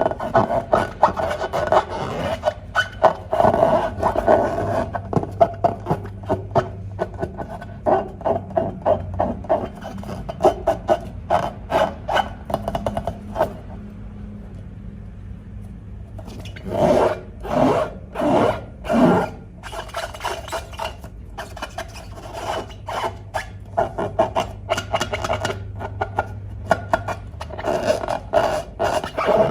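Slime being squished and kneaded by hand: a run of quick sticky clicks and crackles, with four longer, louder squelches about two thirds of the way through.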